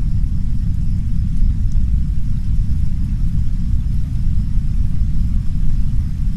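Heavy brown noise: a steady, deep, unbroken rumble, with the soft rain far fainter beneath it as a light hiss.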